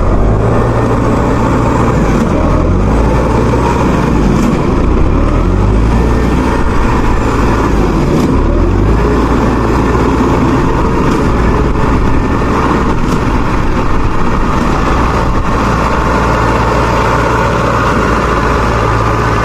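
Heavy farm diesel engines running steadily and loud, with a strong low rumble, during the towing of a mud-stuck rice harvester.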